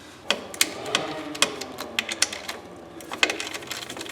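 Irregular sharp clicks and light knocks of small parts and hand tools being worked in a car's engine bay, about a dozen in all, unevenly spaced.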